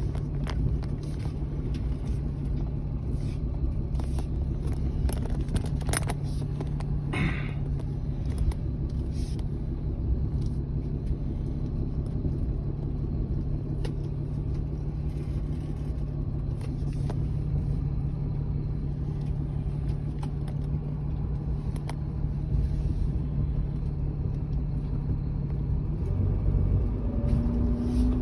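Steady low hum and rumble of a motor vehicle running, with scattered light knocks; the hum shifts lower a couple of seconds before the end.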